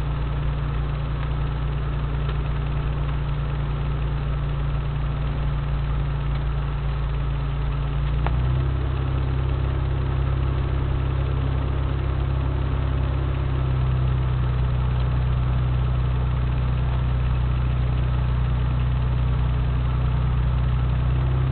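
Four-wheel drive's engine running steadily at low speed on a rough track, heard from inside the cabin; its pitch shifts slightly about eight seconds in.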